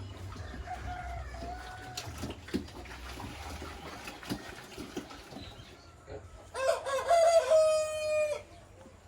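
A rooster crowing once, loudly, about two-thirds of the way in; the call lasts nearly two seconds and ends on a long held note. Faint clicks and a low hum lie under it.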